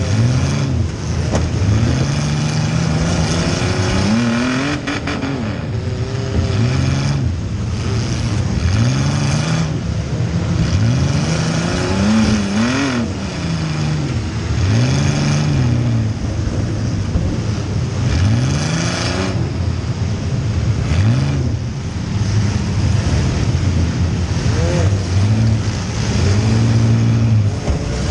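Compact demolition-derby car's engine, heard from inside the cabin, revving up and dropping back again and again, a rise and fall in pitch every second or two.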